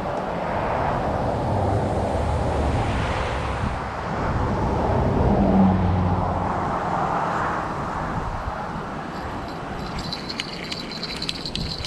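Strong wind noise on the microphone, mixed with road traffic swelling past, loudest about halfway through. Near the end a fast run of sharp clicks starts.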